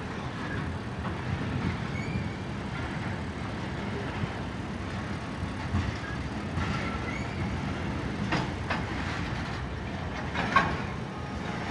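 Freight train rolling past: a steady low rumble of wheels on rail, with a few faint brief squeals and a few clicks in the second half.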